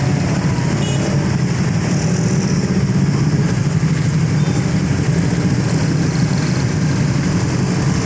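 Steady, loud low vehicle rumble with no pauses or sharp events.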